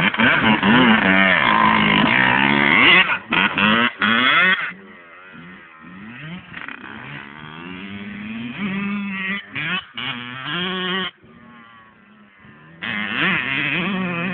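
Two-stroke motocross dirt bike engines revving up and down through the gears. Loud for the first few seconds, fainter and rising in pitch through the middle, then loud again near the end.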